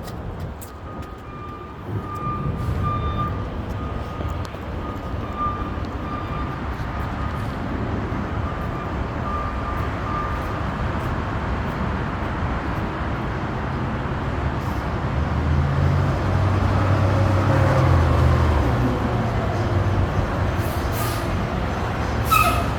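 Garbage truck engine running, with a backup alarm beeping about once a second over the first half. The engine then grows louder, and a short sharp hiss sounds near the end.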